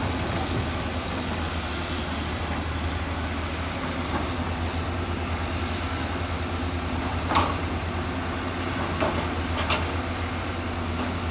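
Heavy diesel engine of a construction machine running steadily, with three sharp clanks in the second half, the first the loudest.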